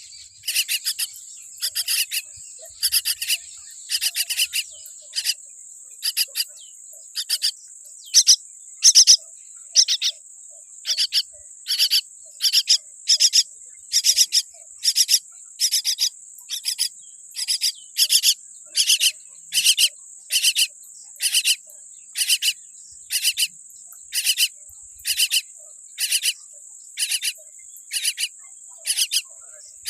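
Myna chick calling over and over in short, loud calls, about three every two seconds, over a steady high-pitched insect-like trill.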